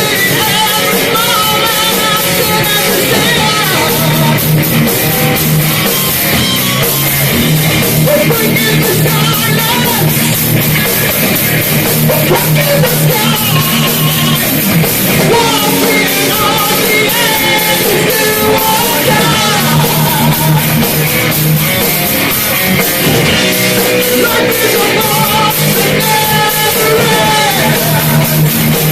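Live heavy metal band playing loud and without a break: distorted electric guitars, bass and drum kit, with vocals over them.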